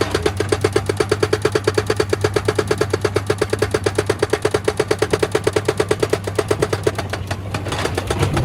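Excavator-mounted hydraulic rock breaker hammering stone at a fast, even rate of about ten blows a second over the excavator's diesel engine running. The hammering falters and stops near the end, leaving the engine.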